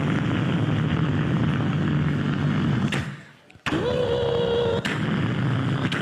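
A man imitating a car engine with his mouth: a low, steady rumble for about three seconds, a brief break, then a rising hum that holds its pitch for about a second as the rumble comes back.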